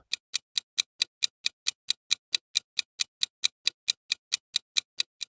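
Countdown timer sound effect: a clock ticking evenly, about four to five ticks a second, stopping just before the end.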